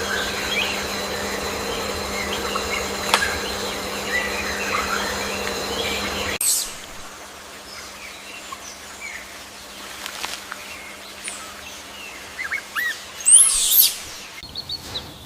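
Birds chirping over a steady hum; the hum stops abruptly about six seconds in, leaving scattered chirps, with a louder burst of calls near the end.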